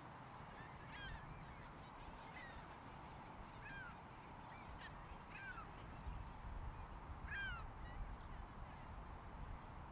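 Birds calling: about eight short, downward-sliding calls spaced irregularly, over a low steady rumble.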